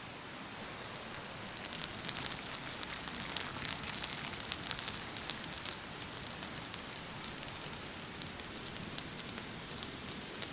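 Wood campfire crackling: a dense run of sharp pops and snaps that thins out after the first half, over a steady hiss.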